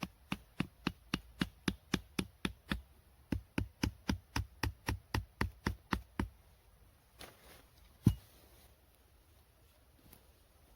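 About thirty quick knocks in an even rhythm, four to five a second, with a short break about three seconds in, stopping about six seconds in; one louder single knock follows about eight seconds in.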